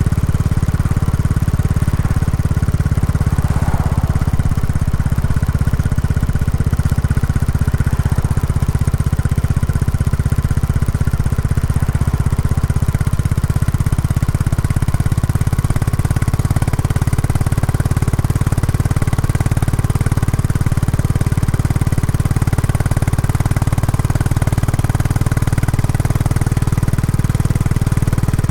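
Royal Enfield Classic 350's single-cylinder engine running steadily through its stock exhaust during break-in riding.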